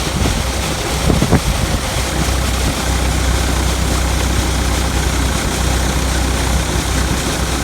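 Massey Ferguson tractor engine running steadily at a low, even idle, with a couple of short knocks just over a second in.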